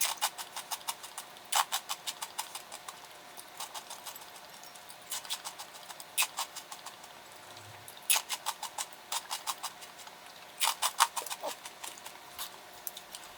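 Crunching of crisp pork rinds being chewed, in short bursts of rapid crackles with quiet pauses between them.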